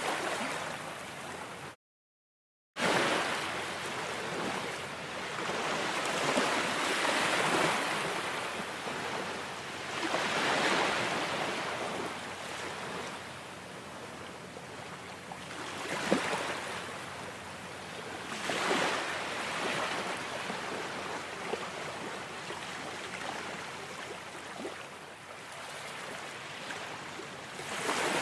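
Ocean waves washing onto a shore, a steady hiss that swells into a louder surge every few seconds. About two seconds in, the sound cuts out completely for about a second.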